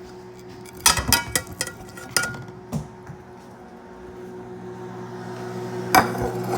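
Microwave oven running with a steady electrical hum, broken by a quick cluster of sharp clicks and clattering knocks about a second in and one more loud knock near the end.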